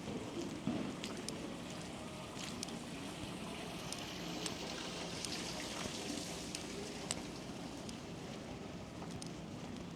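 Street ambience in a snowstorm: a steady hum of distant traffic under a noise of wind and snow, with scattered light ticks and crunches, likely footsteps on snow, a little under a second apart at times.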